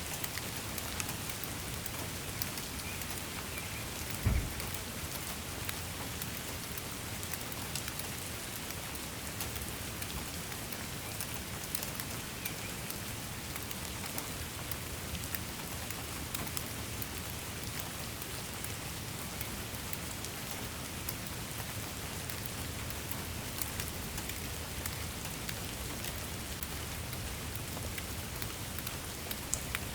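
Steady rain falling, a dense hiss with many separate drops ticking on a surface. A single low thump about four seconds in.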